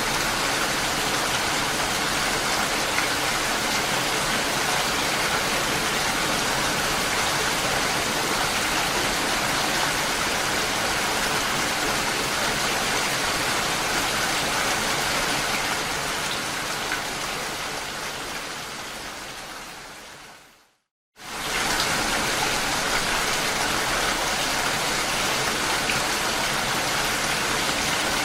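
Steady rain falling. About two-thirds of the way through it fades away to a half-second of silence, then comes back suddenly at full level, like a loop restarting.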